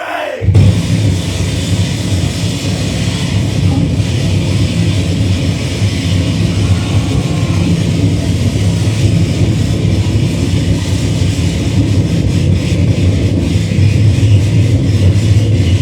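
Live distorted noise performance: a loud, dense wall of noise with a heavy low rumble, cutting in sharply right at the start and then holding steady.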